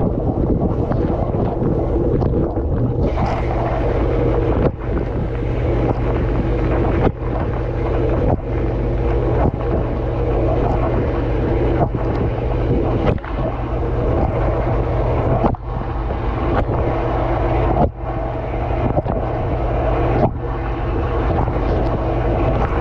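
Water spraying inside a running dishwasher, heard from within the tub, a steady rush over the wash pump's constant low hum. The rush dips briefly every second or two.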